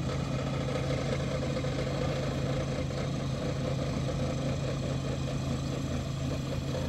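An engine running steadily at constant speed with a low, even hum.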